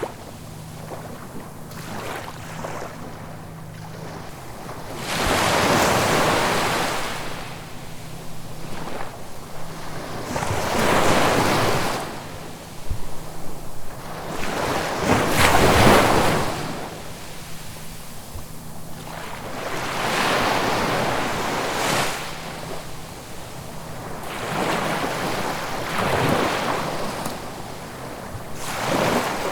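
Sea waves breaking and washing up the shore, each surge swelling and falling away, about one every four to five seconds.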